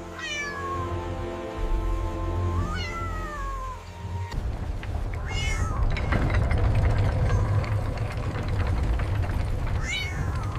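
A cat meowing about four times, each call gliding in pitch, over background music.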